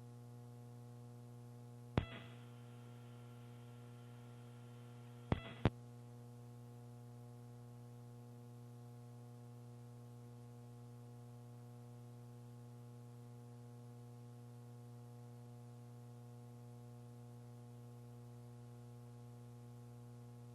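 Steady electrical hum with evenly spaced overtones on a launch-control communications loop. It is broken by a sharp click about two seconds in and two more clicks about three and a half seconds later, as the channel is keyed open and closed.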